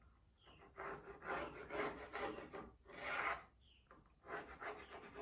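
Thin plywood being worked down by hand with an abrasive, in repeated rasping strokes about one a second.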